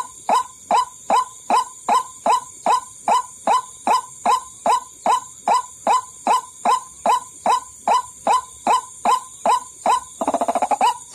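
White-breasted waterhen (ruak-ruak) calls played as a bird-trapping lure. A monotonous series of short, down-curving notes repeats about three times a second, broken about ten seconds in by a quick stuttering run of notes before the regular calls resume.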